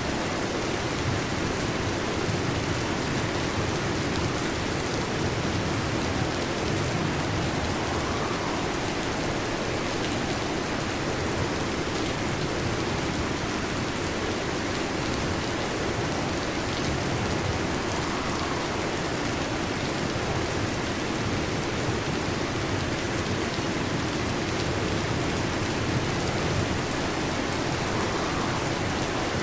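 Heavy rain drumming steadily on a metal roof: an even, unbroken patter with no thunder.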